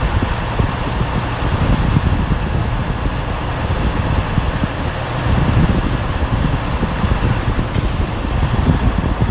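Semi truck driving, heard from inside the cab: a steady low engine and road rumble with fan-like hiss.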